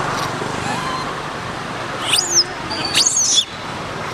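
Two short, shrill squeals from a monkey, about two and three seconds in, each sweeping sharply up and down in pitch, over a steady background hiss.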